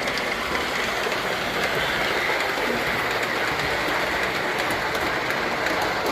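Model trains running on the layout track: a steady rolling whir of wheels and motors with faint clicking.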